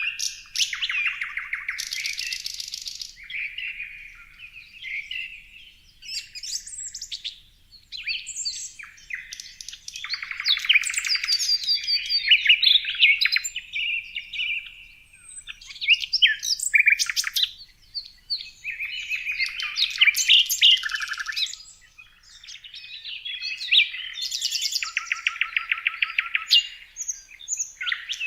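Several songbirds singing and chirping in overlapping, high-pitched phrases, with rapid trills and brief pauses between bursts.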